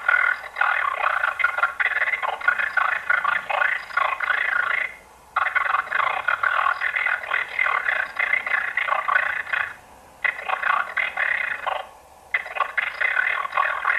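Garbled, heavily distorted crackling voice effect standing in for a figure's speech, too mangled to make out any words. It comes in four long phrases, each starting and stopping sharply, with short pauses between them.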